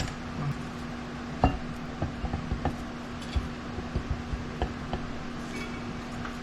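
Scattered light clinks and knocks of metal tools and engine parts being handled, the sharpest about a second and a half in, over a steady low hum.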